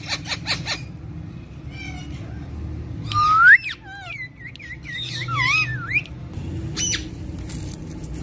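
Pet parrots whistling and squawking. A run of quick clicks comes first, then a loud rising whistle about three seconds in, followed by warbling whistles that slide up and down.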